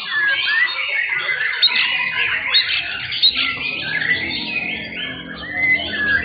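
Many caged white-rumped shamas singing at once in a dense chorus of rapid whistles, trills and harsh squawking notes that overlap without a break.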